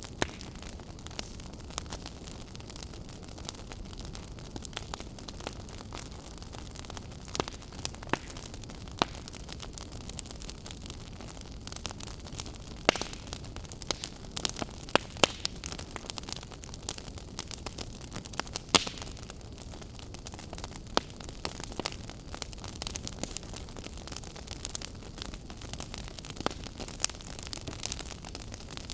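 Wood fire crackling: a steady low rumble and hiss of flames with frequent sharp pops and snaps at irregular intervals, busiest in the middle.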